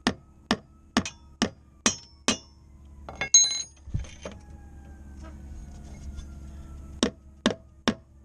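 Hammer blows driving a clamp in, about two strikes a second: six in a row, then a few ringing metallic clinks, a pause, and three more strikes near the end.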